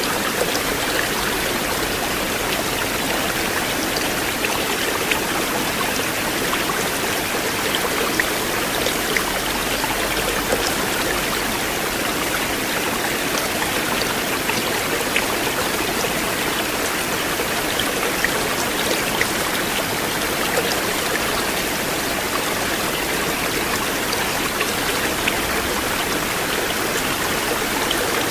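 River water flowing in a steady, unbroken rush, with small splashes and droplets ticking through it.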